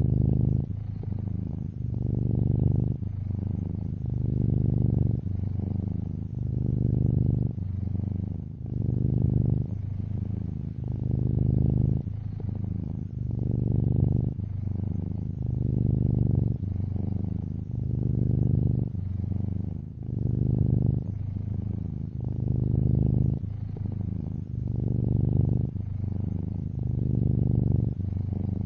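A tuxedo cat purring steadily and deeply, swelling and easing in a slow rhythm about every two seconds.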